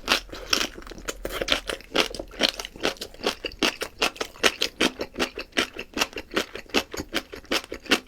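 Close-up chewing of crisp boiled greens: quick, rhythmic wet crunches, about five a second.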